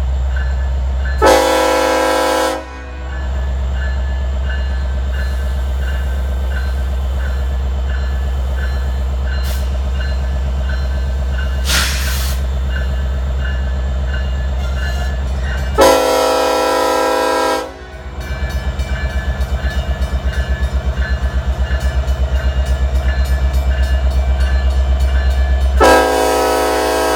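Union Pacific diesel freight locomotive sounding its multi-chime air horn in three blasts, one about a second in, one past the middle and one near the end, over the steady low rumble of the diesel engine. In the last third the rumble takes on a fast, even pulsing.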